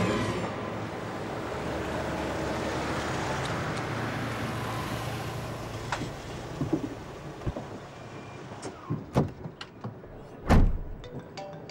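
A steady rumbling vehicle-like noise that fades away over the first several seconds, then scattered clicks and knocks and one heavy thump near the end.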